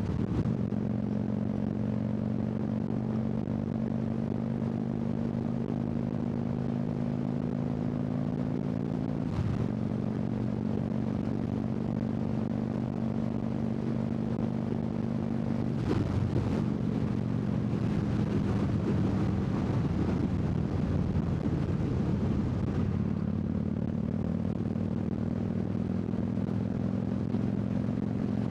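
Harley-Davidson V-twin engine running steadily under way, heard from the rider's seat over wind rush. The engine note shifts briefly about a third of the way in and again about halfway, then wavers lower for a few seconds before settling.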